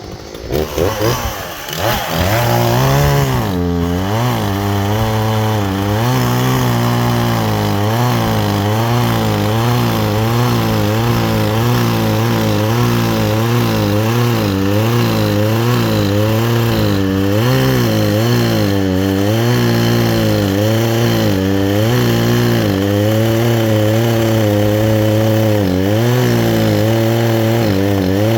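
Gas chainsaw fitted with a new chain, revving up over the first couple of seconds and then running at high throttle while cutting wood. Its engine pitch dips and recovers again and again as it bogs under the load of the cut.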